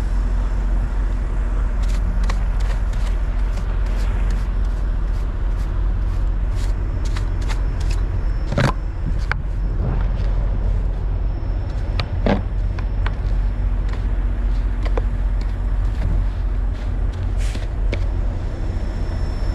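Steady low rumble of an idling semi-truck diesel engine. Scattered sharp clicks and ticks sound over it, with two louder knocks about nine and twelve seconds in.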